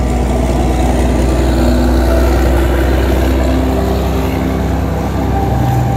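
Diesel multiple unit train running past, a heavy low rumble with wheel and engine noise that eases about four seconds in as its last cars go by.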